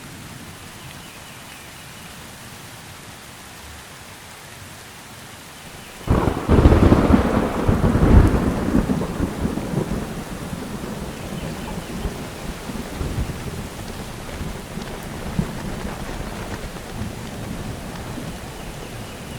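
Steady rain, then about six seconds in a sudden peal of thunder that rumbles loudly for two or three seconds and slowly rolls away while the rain goes on.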